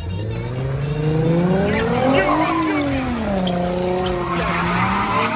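Car engine revving, its pitch climbing for about two and a half seconds, then dropping and holding steady, while the tyres squeal under wheelspin.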